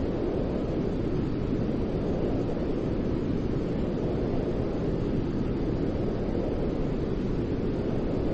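Steady white noise of the kind played to settle a crying baby: an even, unbroken rushing hiss, weighted toward deep tones, with no changes.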